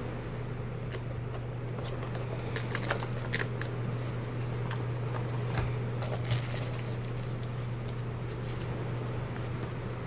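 Scattered light clicks and rustles of a pistol case and its packaging being handled, in two busier bursts, over a steady low hum.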